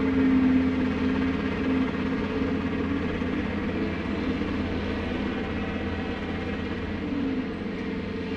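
Heavy diesel engine running steadily, a droning tone that eases a little a few seconds in.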